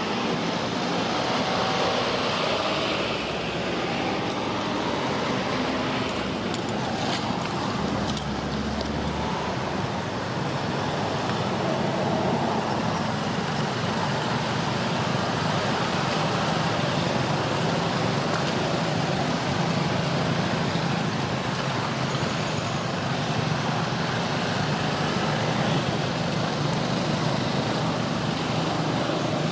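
Steady outdoor traffic noise, with vehicles running by and a low hum, and no distinct single events.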